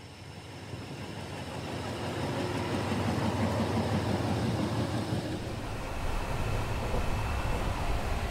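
Passenger train running along the track, heard from inside the coach at an open window: a steady rumble of wheels on rail with rushing air. It grows louder over the first few seconds, then holds steady.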